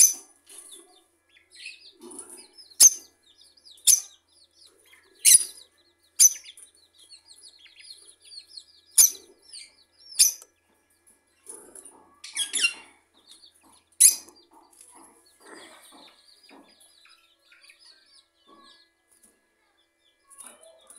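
Small birds chirping: short, sharp high-pitched calls every second or two, with softer twittering between them.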